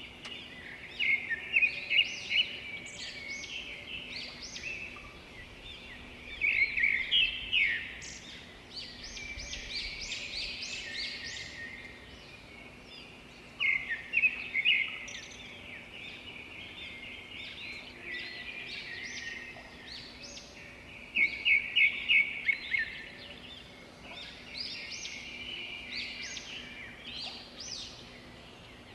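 Birds calling in several bouts of rapid, high chirps and trills, a few seconds apart, over a faint steady low hum.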